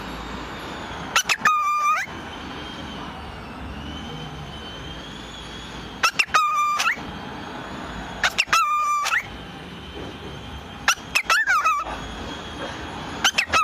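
A cockatiel calling in short, loud bouts of chirps that bend up and down in pitch, about five bouts a couple of seconds apart.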